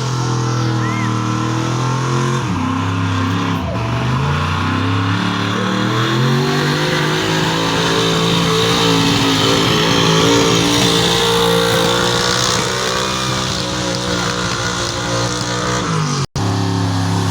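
Truck engine under heavy load in a truck pull: its revs dip, then climb and hold high as it drags the sled, with a brief dropout near the end.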